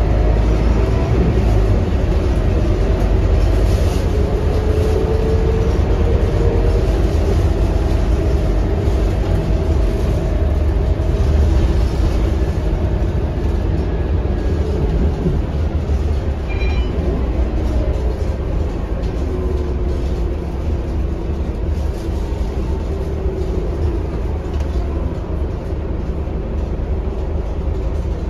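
Scania K230UB city bus's five-cylinder diesel engine and drivetrain heard on board while driving: a loud, steady low rumble with the engine's pitch rising and falling as the bus pulls away, accelerates and slows.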